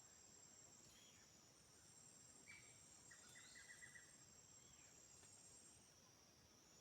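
Faint forest ambience: a steady, high-pitched insect chorus, with a few short chirping calls and a quick run of about six notes around three seconds in.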